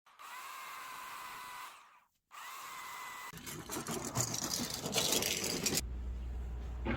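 Chainsaw running at a steady whine, cutting out briefly about two seconds in and starting again, then biting into wood from about three seconds in with a rougher, crackling noise. A low steady hum sets in near the end.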